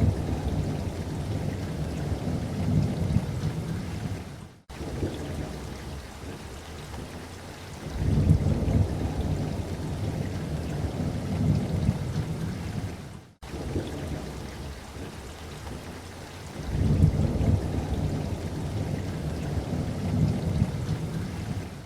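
Steady rain hiss with three long, low rolls of thunder, each lasting about four seconds and coming roughly every eight seconds. The rain cuts out to silence for an instant twice.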